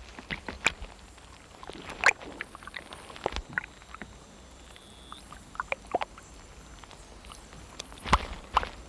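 Sparse small clicks and soft watery sounds, with a louder cluster of clicks near the end.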